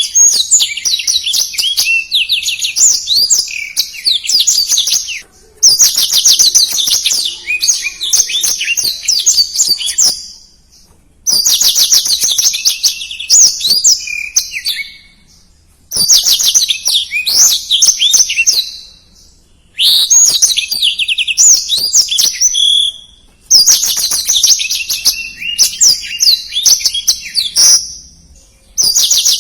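Black-throated canary (blackthroat) singing. It repeats long, fast, high-pitched warbling phrases of three to five seconds each, packed with rapid trills and separated by short pauses.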